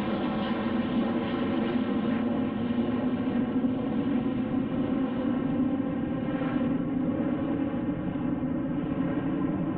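Aircraft engine running: a steady drone made of many even overtones that holds without a break.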